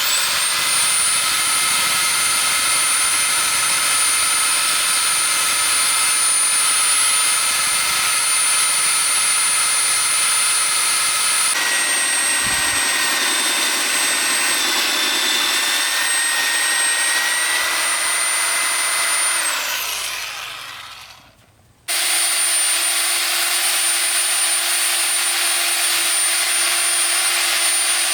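Electric power tool running with a steady high whine; about twelve seconds in its pitch sags slightly as it bites into the work, then it winds down and stops just before twenty seconds. It starts again about twenty-two seconds in and runs steadily until it winds down at the end.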